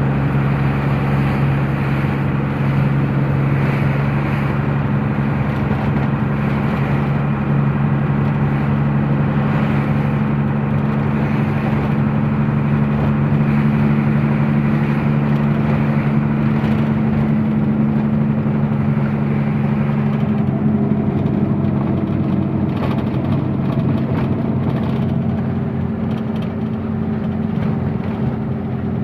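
Truck engine running steadily on the road. Its note changes about two-thirds of the way through.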